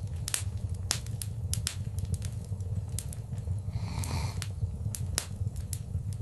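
Wood fire in a fireplace crackling, with many sharp, irregular pops over a steady low rumble of flames. A soft hissing swell comes and goes about four seconds in.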